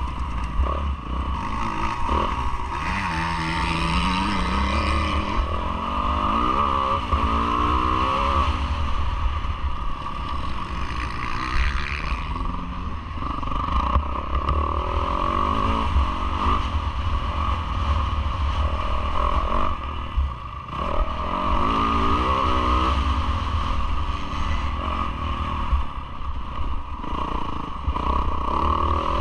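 Yamaha YZ450F four-stroke single-cylinder motocross engine revving up and down repeatedly under hard throttle, with brief easings off, recorded onboard with steady wind rush and chassis clatter.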